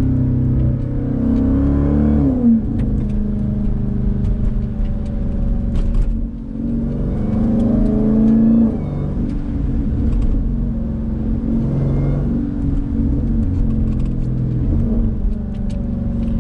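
Jeep Grand Cherokee Trackhawk's supercharged 6.2-litre Hemi V8, catalytic converters removed but mufflers kept, accelerating through the gears. Engine pitch climbs and then drops at a shift about two and a half and eight and a half seconds in, then rises again.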